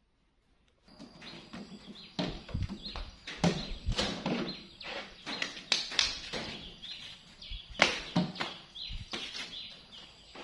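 Irregular knocks, taps and rustles of shoes being handled and pulled out of a wooden shoe cabinet.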